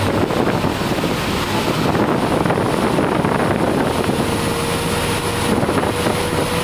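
Steady wind and rain noise over a running truck engine, with a faint steady whine coming in about two-thirds of the way through.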